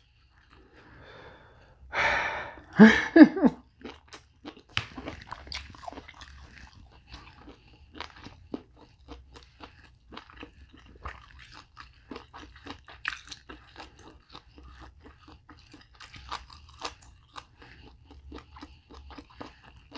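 A person chewing soft lobster meat close to the microphone: a long, irregular run of small mouth clicks and smacks. About two seconds in, a loud exhale, then a short hum.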